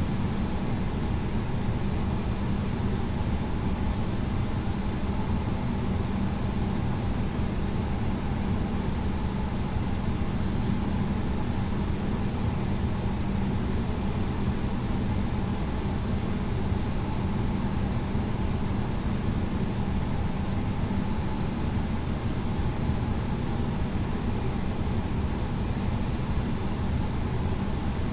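Steady cabin noise inside an Airbus A320neo: a constant engine hum under the rush of air, with no change in pitch or level.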